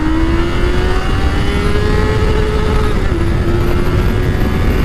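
Honda CBR650R's inline-four engine pulling hard under acceleration in first gear, its pitch rising steadily, dipping briefly about three seconds in, then holding high.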